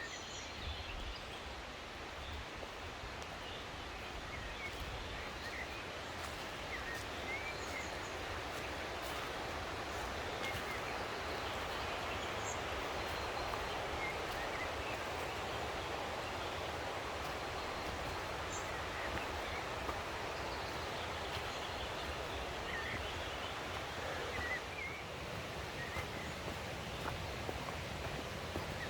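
Mountain stream water rushing steadily, growing slightly louder, with short bird chirps scattered throughout.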